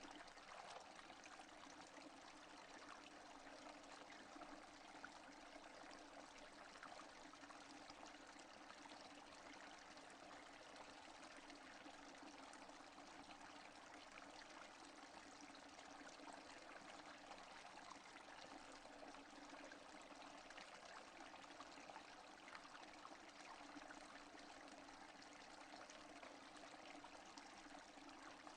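Faint, steady rainfall without thunder: an even hiss of falling rain with fine scattered drop ticks.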